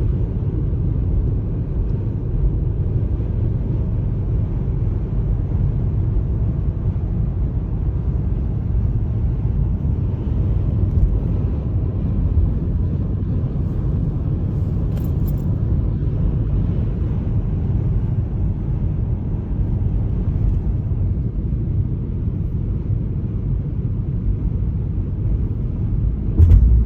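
Steady low rumble of a car travelling on the road, even throughout with no sharp events.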